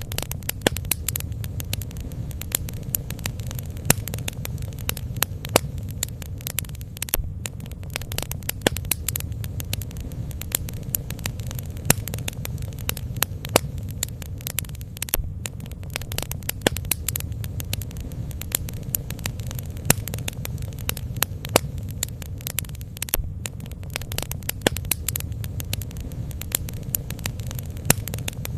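Bonfire burning: a steady low rush of flames with frequent sharp crackles and pops throughout.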